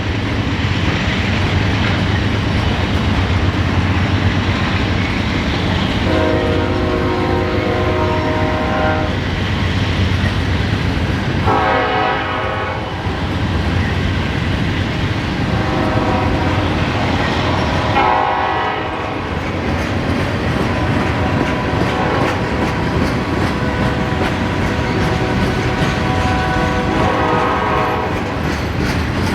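A passing train with its diesel locomotive horn sounding several separate blasts, some long and some short, over a steady low locomotive rumble and the clack of wheels over rail joints.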